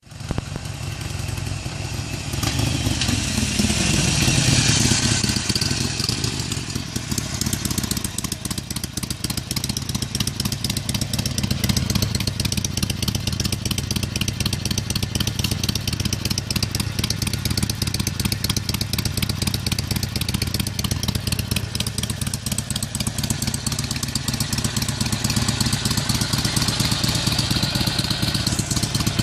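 Harley-Davidson Sportster Iron's air-cooled V-twin running through its stock US baloney-cut mufflers. About three seconds in it is revved and the revs fall back, then it settles into a steady, lumpy, pulsing idle.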